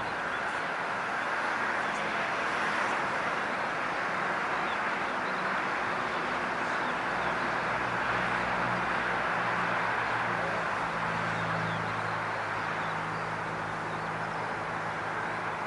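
Steady jet engine noise from a landed Boeing 767 with GE CF6 engines, a continuous hiss-like rumble with a low hum coming in partway through. Faint birds chirp now and then.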